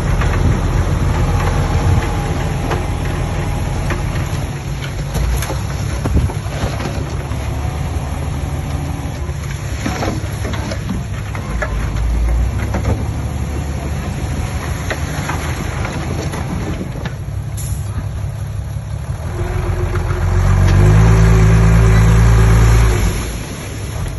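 Heavy diesel machinery working: a bulldozer and dump truck engines run with a deep rumble and occasional metal clanks. Near the end one engine revs hard for about three seconds before dropping back.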